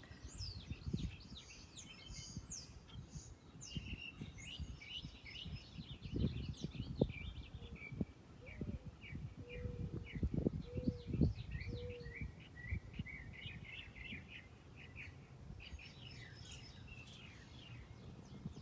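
Birds chirping and singing in quick, overlapping runs of short high notes, with scattered low bumps and thumps from handling.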